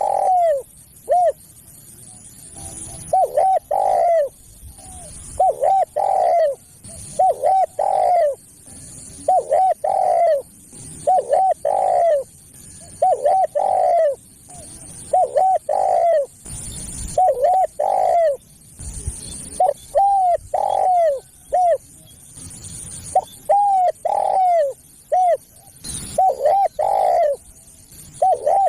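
Spotted dove (tekukur) cooing: phrases of several short arched coos repeated about every two seconds. A few brief thumps come between phrases.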